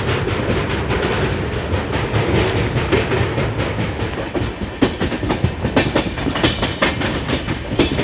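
Passenger train running, heard from on board: a steady rumble of the coach with wheels clattering over rail joints, the clacks sharper and more frequent from about five seconds in.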